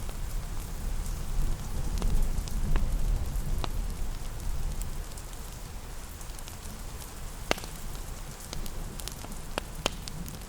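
Steady rain with a low rumble, and a fireplace crackling, with scattered sharp pops, two of the loudest late on.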